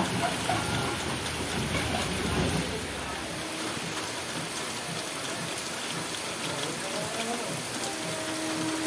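Heavy rain falling steadily on wet ground and tracks. For the first three seconds or so a vehicle rumbles low on the wet road. A faint steady tone comes in near the end.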